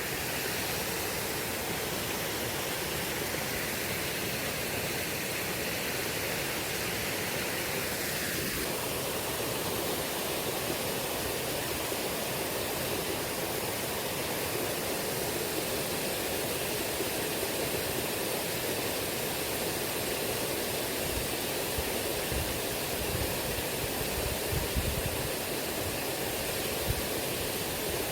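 Shallow, fast-flowing river water rushing steadily over stones, with a few low bumps in the last few seconds.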